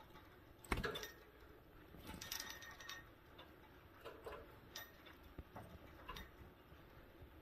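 Java sparrows moving about their cage and swing, making light clicks, taps and rattles. The loudest knock comes about a second in, with a flurry of taps about two seconds in and scattered lighter ticks after.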